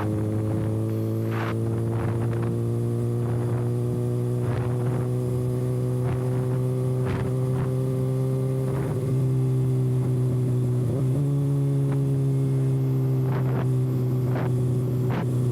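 Kawasaki ZX-6R inline-four engine running without its exhaust silencer, holding a steady cruising note that creeps up slowly. About nine seconds in the pitch wavers and drops, then settles and holds. Brief sharp ticks come through it.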